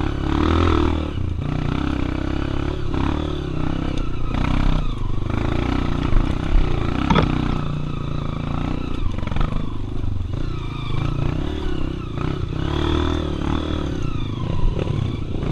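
Single-cylinder trail motorcycle engine running at low revs, the revs rising and falling with the throttle, with the clatter of the bike over rough ground and a sharp knock about seven seconds in.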